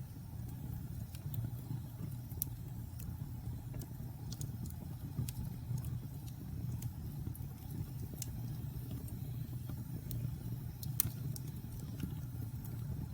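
Wood fire burning in a fireplace: a steady low rumble with scattered, irregular crackles and pops, the sharpest about eleven seconds in.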